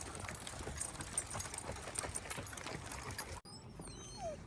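Irregular patter of footsteps and clicking from a pack of leashed dogs walking. About three and a half seconds in it cuts off suddenly to a quieter stretch with faint high chirps.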